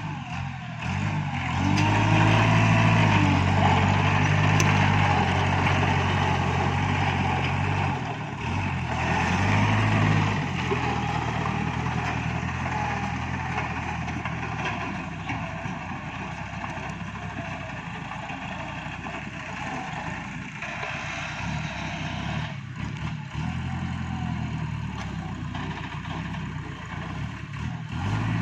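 Iseki NT554 tractor's diesel engine running as it works with a grapple. It picks up speed and gets louder about two seconds in and again around ten seconds, then runs steadier and a little quieter.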